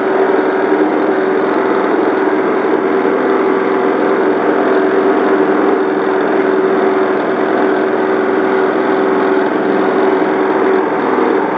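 Engine-driven coconut milk pressing machine running steadily, a continuous even hum with no change in speed.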